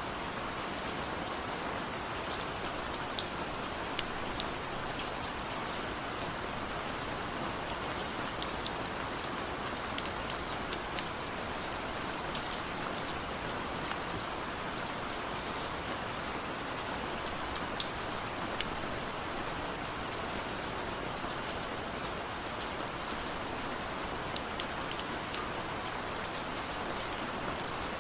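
Steady rain falling, with scattered close drops ticking sharply on a surface throughout.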